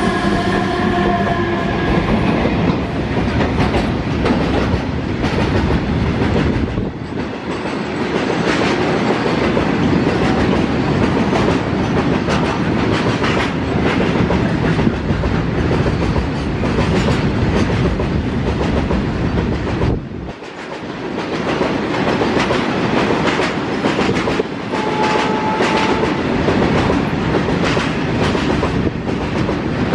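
Freight train of tank wagons rolling past at speed: a steady rumble of wheels on rail with rapid clicking over the rail joints. The electric hum of the WAG12B locomotive dies away in the first two seconds as its rear end goes by.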